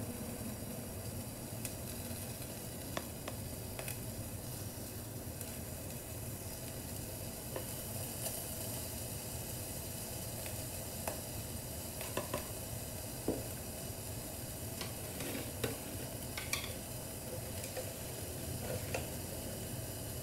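Steady sizzling hiss of food frying in a pan, with a few faint taps scattered through it.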